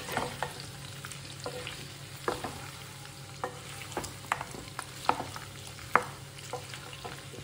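Pork and potato chunks sizzling in their own rendered pork fat in a kadai, while a wooden spatula stirs them, scraping and knocking against the pan about once or twice a second.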